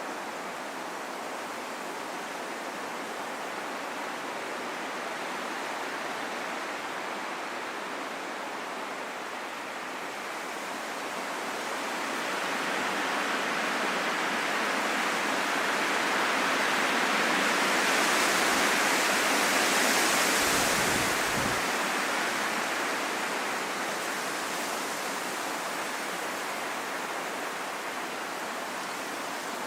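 Wind blowing steadily, swelling into a stronger gust about halfway through and then easing off again.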